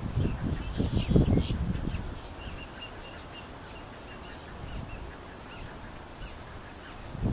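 A bird calling: a run of short, faint, evenly spaced high notes, several a second, from about two seconds in until about six seconds. Low rumbling noise is the loudest sound in the first two seconds and starts again near the end.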